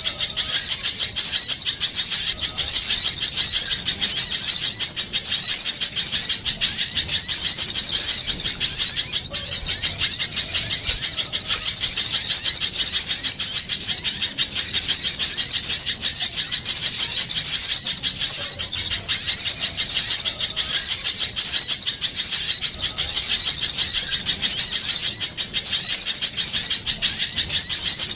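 A dense, continuous chatter of many small songbirds, with rapid high-pitched chirps overlapping without a break. It is a trapper's lure recording of small birds calling in agitation ("ribut").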